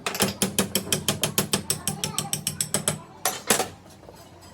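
Ratchet wrench clicking rapidly, about eight clicks a second, for about three seconds, followed by two louder knocks.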